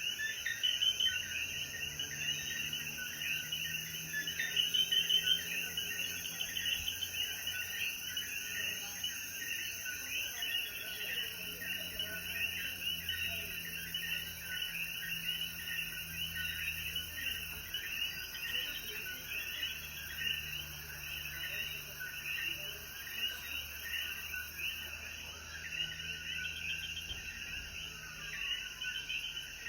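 Night chorus of many common coquí frogs calling over one another, with a steady high insect tone that stops about ten seconds in.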